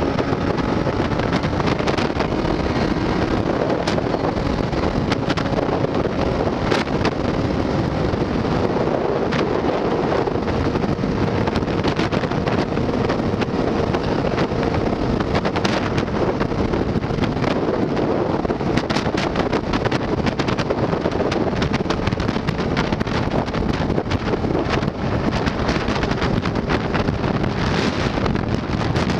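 Wind rushing hard over the microphone of a motorcycle riding on the road, with the engine's steady drone faintly beneath it.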